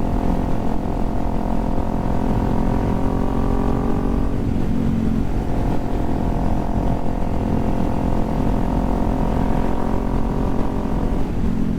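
Kawasaki Z400's parallel-twin engine running steadily on the move, with a low rumble beneath. Its pitch shifts about four seconds in and again near the end.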